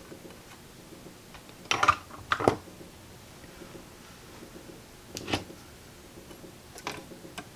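A few short clicks and brief rustles of hands and small tools working on soldered wires, over a faint steady hum.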